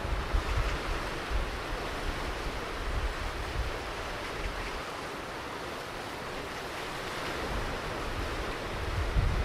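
Ocean surf washing steadily on a beach, an even hiss of breaking water, with low wind buffeting on the microphone near the start and again near the end.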